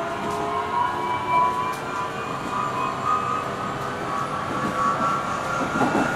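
Onboard running sound of a JR 373 series electric motor car (KuMoHa 373-11), its traction motors whining in several tones that rise slowly in pitch over a steady wheel-and-rail rumble, with a few faint clicks. This car is known for an unusually strong abnormal running noise.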